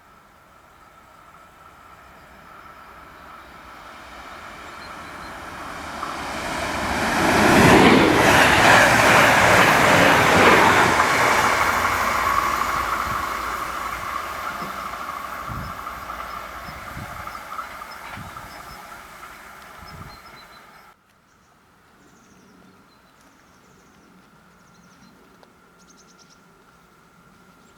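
Electric train approaching and passing close by with wheels clattering on the rails, rising to its loudest about eight seconds in and fading away. The sound cuts off abruptly about 21 seconds in, leaving faint high chirping.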